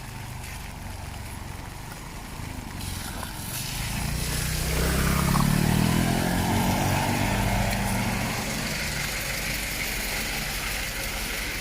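A motor vehicle engine drawing near and passing, loudest about five to seven seconds in, over a steady hiss of rain.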